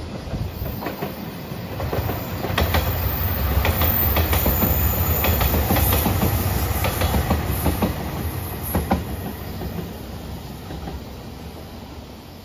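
JR Shikoku 2700-series diesel limited express train (the red Anpanman train) passing close by: wheels clacking over rail joints over a low rumble, growing loud about two seconds in and fading away after about nine seconds.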